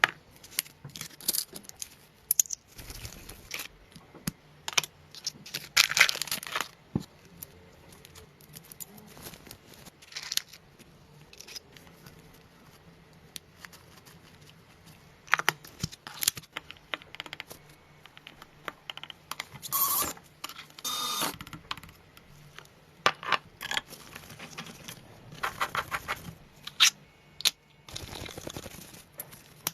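Small model-engine parts being handled and fitted: irregular light clicks and taps with short rustling and scraping sounds, with busier clusters a few times.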